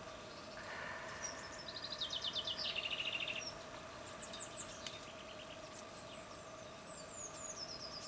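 Garden songbirds singing over a faint steady background: a fast trill that steps down in pitch about a second and a half in is the loudest part, followed by shorter, higher chirping phrases.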